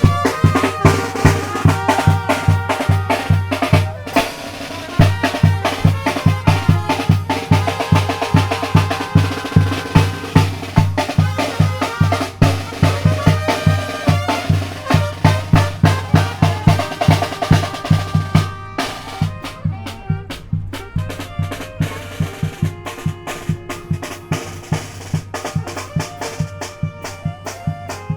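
Tamborazo band music: the tambora bass drum and snare keep a steady beat under brass. About two-thirds of the way in, the brass mostly drops out and the drums carry on largely alone.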